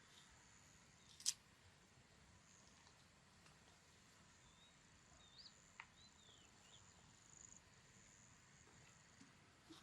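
Faint rural outdoor ambience with a steady high-pitched insect drone. A few faint short chirps, likely birds, come in the middle, and a single sharp click falls about a second in.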